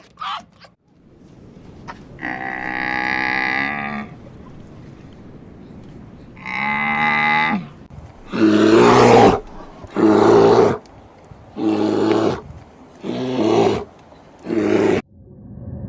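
Animal calls: two long, drawn-out pitched calls, then five loud, harsh calls in a row about every second and a half.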